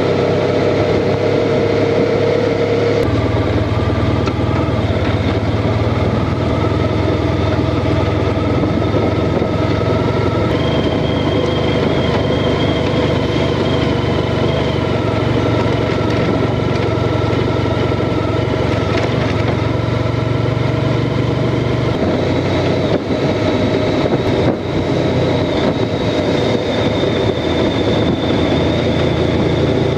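Honda Crosstourer's V4 engine running steadily under way with a continuous rush of noise. The engine note steps up about three seconds in and eases back a little past twenty seconds.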